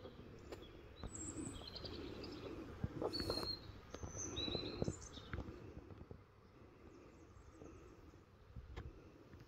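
Small birds chirping in short high calls, several in the first half, over a low background rumble. A brief louder noise comes about three seconds in.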